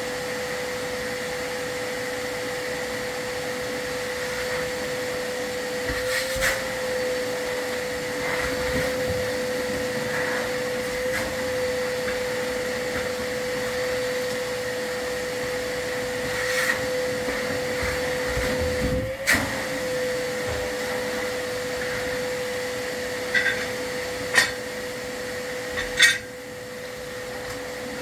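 Vacuum running steadily with a constant whine, broken by a few sharp knocks and clatters, the loudest two near the end.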